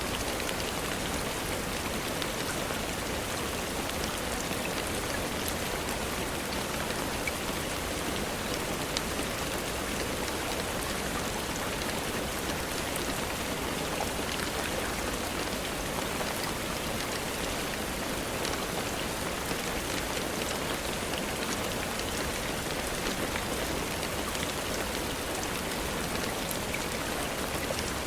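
Steady rainfall, an even hiss of noise with scattered faint ticks of individual drops.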